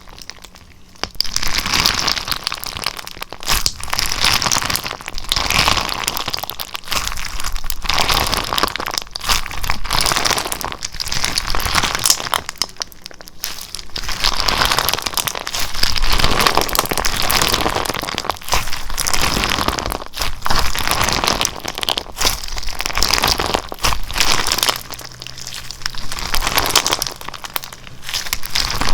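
Slime being squished and stretched by hand, giving dense, fast crackles and pops that swell and fade every second or two.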